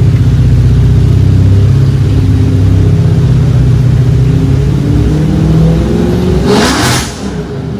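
A motor or engine running loudly and steadily, its pitch shifting slightly, with a short burst of hiss near the end as the running sound drops away.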